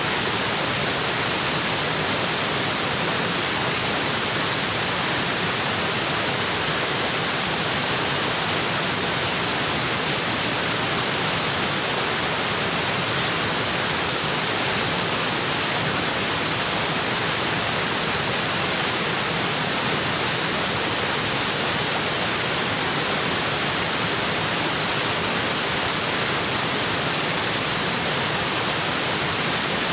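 Waterfall pouring onto rocks: a dense, steady rush of falling water.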